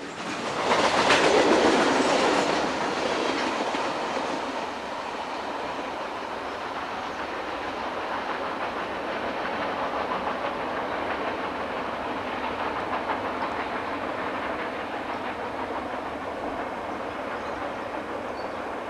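Conrail local freight train rolling past, its wheels clicking over the rail joints. The sound is loudest a second or two in, then settles into a steady rumble of passing cars.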